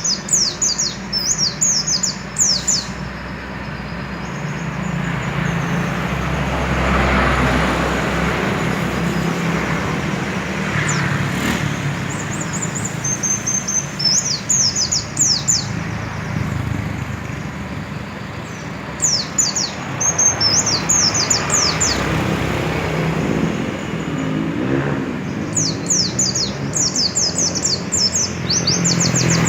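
Pelci songbird singing in four bursts of rapid, high, steeply falling notes, with passing motor traffic rumbling steadily underneath and swelling between the phrases.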